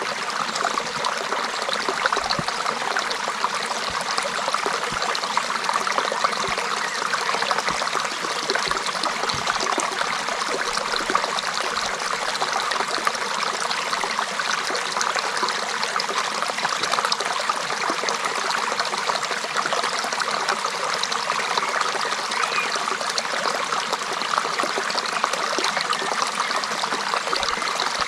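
Creek water running steadily over stones, a continuous babbling and trickling with fine splashes.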